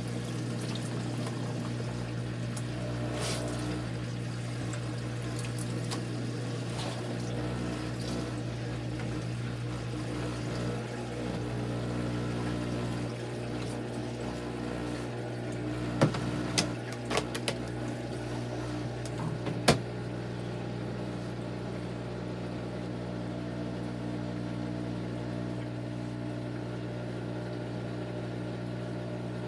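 Kuppet portable washing machine running with a steady motor hum and water moving through it. A few sharp clicks come about halfway through.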